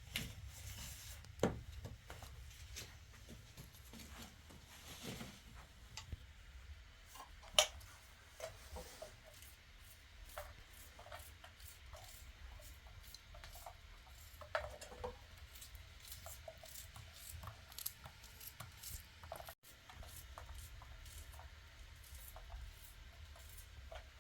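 Scattered light knocks, clicks and rubbing, as of objects being handled, over a low steady rumble. The sharpest knocks come about one and a half and seven and a half seconds in.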